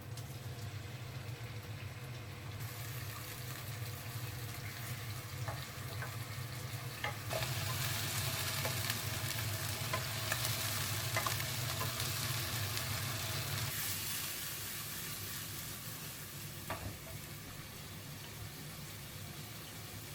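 Pork sizzling as it fries in a pan, with a few short clinks of a utensil stirring it. The sizzle swells a few seconds in and eases off about two-thirds of the way through. A steady low hum stops at about the same moment.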